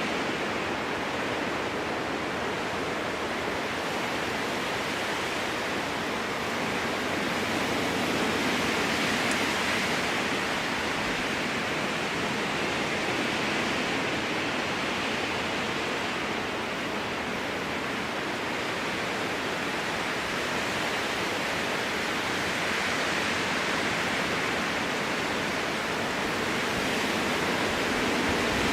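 Strong wind blowing through spruce trees: a steady rushing hiss that swells and eases every several seconds.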